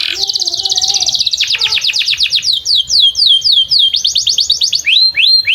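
Domestic canary singing a long, continuous song: fast trills alternate with runs of repeated high downward-slurred notes, about three or four a second, and a second fast trill comes about four seconds in.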